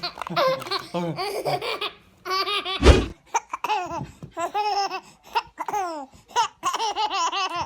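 A baby laughing hard, in high-pitched peals of short repeated syllables. About three seconds in there is one short, loud, low burst of sound.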